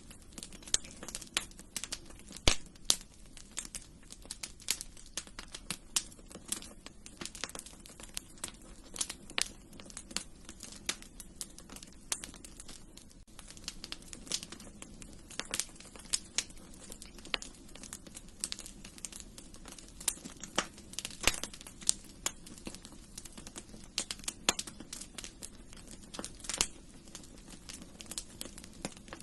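Wood fire crackling in a fireplace: frequent irregular sharp pops and snaps over a low steady hiss.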